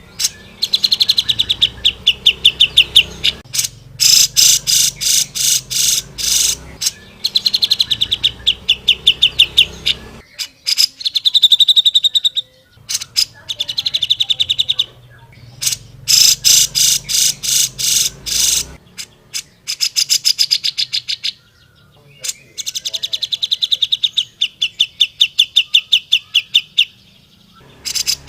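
Grey-cheeked bulbul (cucak jenggot) singing in fast chattering trills of evenly repeated high notes. The trills come in runs of a few seconds with short pauses between them.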